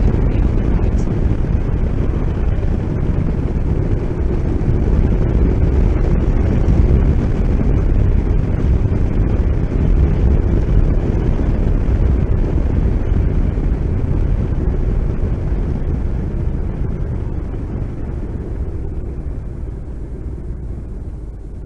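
Motorcycle on the move: a heavy rush of wind on the microphone over the engine's low rumble. It dies down over the last several seconds.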